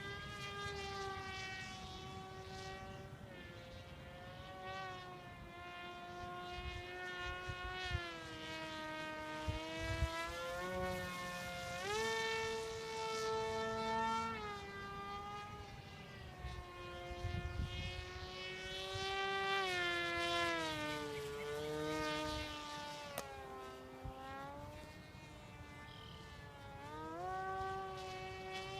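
Electric motor and propeller of a Tuffwing 32 foam flying wing, a buzzing whine whose pitch climbs and drops again and again as throttle and airspeed change. Wind rumbles and buffets the microphone underneath.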